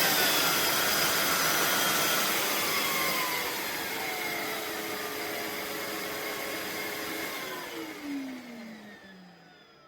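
Philips Series 9000 bagless vacuum cleaner's motor running with a high whine, then winding down after switch-off: its pitch falls and the sound fades over the last several seconds.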